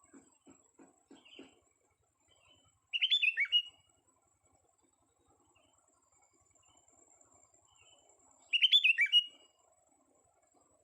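Young sooty-headed bulbul singing two short phrases of quick, falling whistled notes, about five seconds apart, with faint chirps in between.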